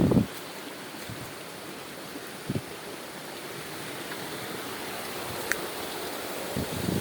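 Steady rush of water from a stream at the top of a waterfall, with a few short low thumps: one at the start, one about two and a half seconds in and one near the end.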